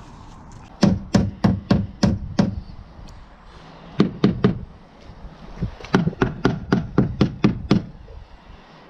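Sharp knocking strikes, like hammer taps on a part, about three a second in three runs: six strikes, then three about four seconds in, then eight or so more.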